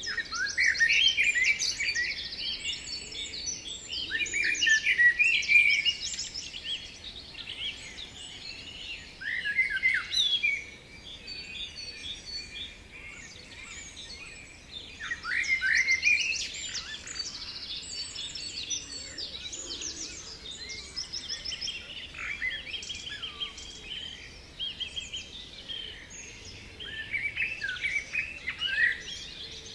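A chorus of songbirds: overlapping chirps, fast trills and short downward-sweeping notes, coming in louder bursts every few seconds.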